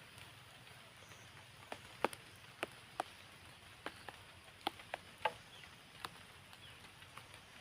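Light rain, a steady hiss with about a dozen sharp, irregular drops tapping on nearby surfaces.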